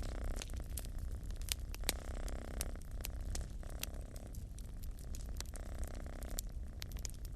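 Wood fire crackling with frequent sharp pops, over a cat's continuous purring that comes and goes in cycles of a second or so with its breaths.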